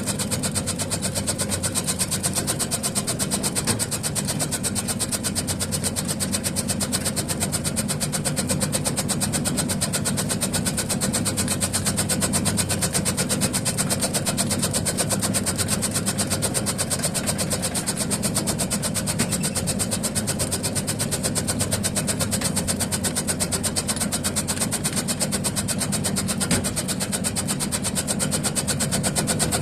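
Motorised tobacco and taro-leaf chopping machine running steadily, its mechanism making a fast, even run of strokes over a constant motor hum.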